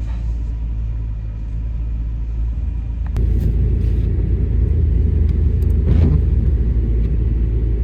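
Chevy Express 3500 van driving on the highway: a steady low rumble of road and drivetrain noise that gets louder about three seconds in.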